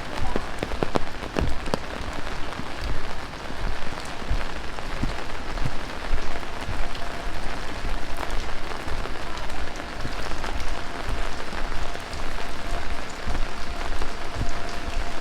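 Heavy rain falling in a steady rush, with many sharp ticks of single drops landing close by. A faint steady tone joins about halfway through.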